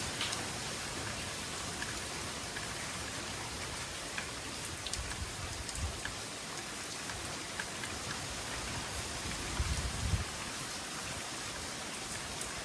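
Heavy tropical rain falling steadily, with scattered ticks of individual drops striking nearby surfaces. A couple of brief low rumbles stand out, the loudest about ten seconds in.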